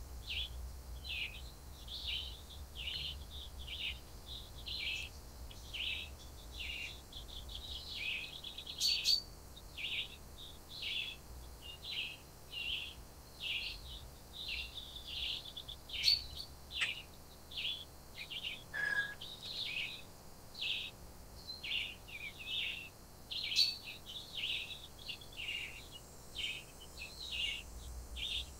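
Forest birds chirping busily: a steady run of short, high chirps, two or three a second, with a few sharper clicks among them.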